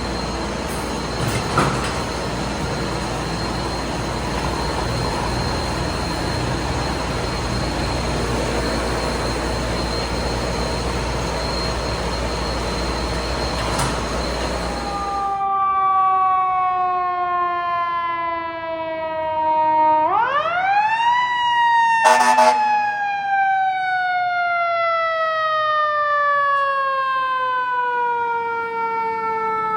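A steady, loud rumble with a thin high whine cuts off abruptly about fifteen seconds in. A fire truck's mechanical siren follows: its wail falls, winds quickly back up about twenty seconds in, then coasts slowly down in pitch to the end. A brief horn-like blast sounds just after the wind-up.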